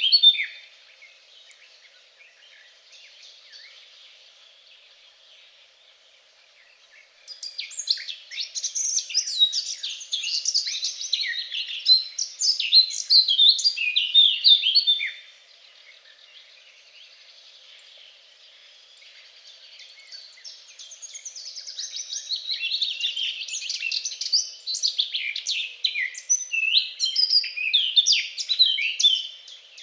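A songbird singing in long bouts of rapid, varied high chirps and trills, one from about a quarter of the way in to the middle and another through the last third, with quieter stretches of faint distant chirping between.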